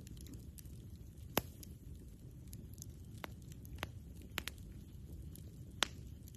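Wood campfire burning: a steady low rumble with sharp, scattered crackling pops, the loudest about a second in and again near the end.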